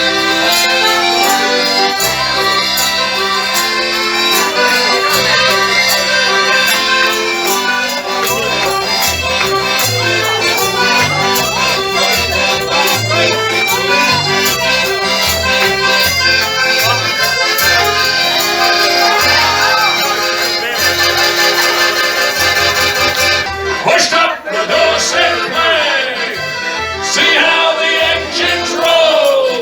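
Live band playing an up-tempo instrumental tune with a bass line and a steady beat. The tune breaks off about 24 seconds in, and voices take over.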